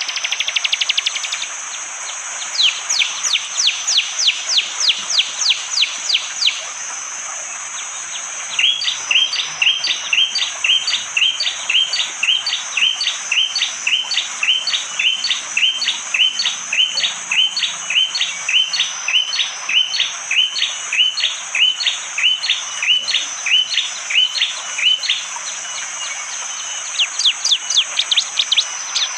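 Bar-winged prinia (prenjak jali) giving its hard, sharp 'tembakan' call: runs of clipped, evenly repeated notes. A fast burst comes at the start, then a run of about four notes a second, then a long run of about two to three notes a second lasting over fifteen seconds, and another quick run near the end. A steady high-pitched hiss runs underneath.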